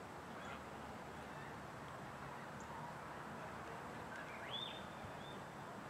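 Open-air background hiss with a bird calling: a few faint short chirps, then one clearer call that rises and holds briefly about four and a half seconds in.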